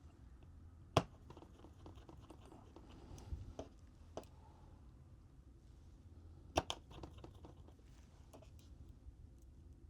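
Small hard clicks and taps of tools and phone parts being handled during a phone reassembly: a sharp click about a second in, a few lighter ones around four seconds, and a quick double click about two-thirds of the way through, with faint scraping between.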